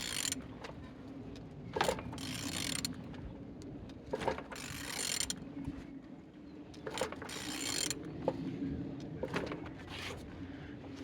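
Intermittent mechanical clicking and rasping strokes, one every second or two, over a faint steady hum.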